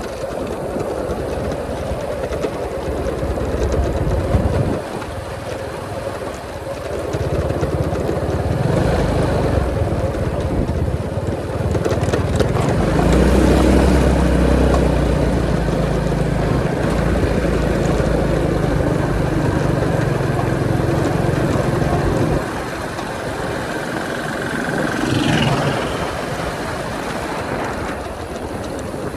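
Honda 125 motorcycle engine running while riding on a highway, with wind and road noise. The engine note drops about five seconds in, builds again over the next several seconds, and drops once more a little after twenty-two seconds.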